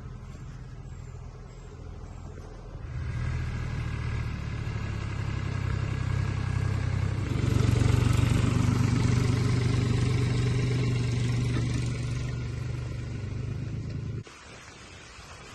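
An engine running steadily, coming in about three seconds in and growing louder, then cut off suddenly near the end.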